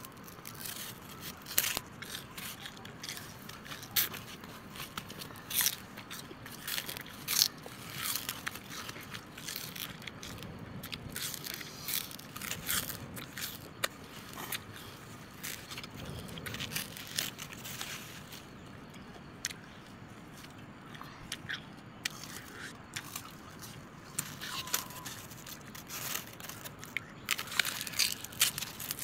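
Crunchy snack being bitten and chewed: irregular sharp crunches and crackles, easing off for a few seconds about two-thirds of the way through.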